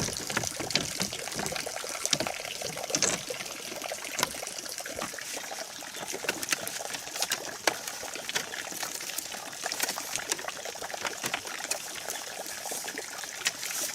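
Bamboo being split into thin strips and handled: many light, irregular clicks and cracks over a steady hiss.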